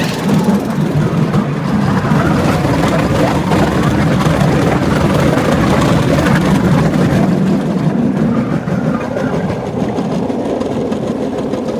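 Cambodian bamboo train (norry) running along the rails: its small engine and the rattling clatter of the platform and wheels over the track, a little quieter in the last few seconds.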